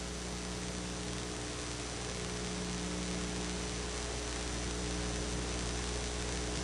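Steady electrical mains hum over a constant hiss: the background noise of the recording, with nothing else sounding.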